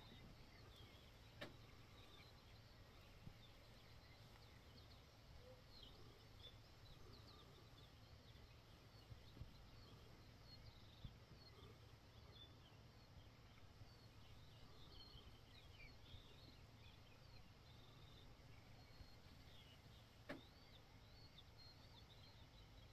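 Near silence outdoors, with faint, distant birdsong of many short chirps throughout over a low background hum. Two soft clicks, one about a second in and one near the end.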